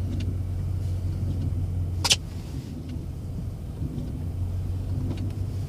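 Plow truck running with a steady low rumble as its blade scrapes over a thick glaze of ice, with one sharp crack about two seconds in.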